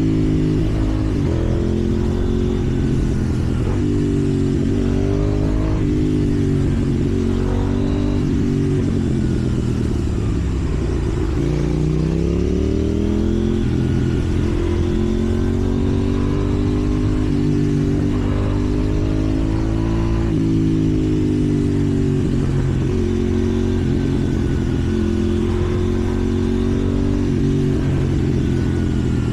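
KTM 790 Duke's parallel-twin engine accelerating through the gears. Its pitch climbs and drops back with each shift. About eleven seconds in the revs fall low, then it pulls away again.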